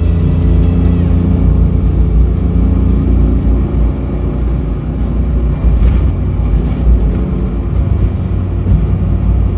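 Suzuki Every kei van's 660 cc three-cylinder engine running steadily through a Plusline High Style aftermarket muffler, with a low exhaust rumble.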